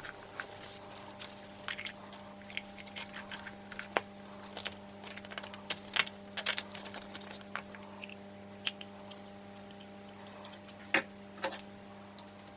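Irregular light clicks, taps and clinks of hand tools and small metal engine parts being handled on a workbench, a few sharper knocks among them, over a steady low electrical hum.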